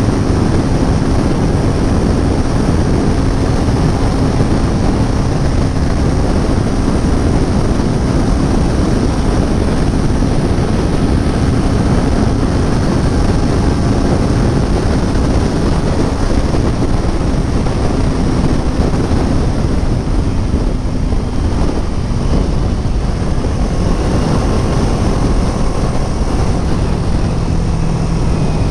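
Kawasaki Ninja 400 parallel-twin motorcycle being ridden at road speed, its engine hum mixed with a steady rush of wind over the microphone. The engine note settles lower near the end.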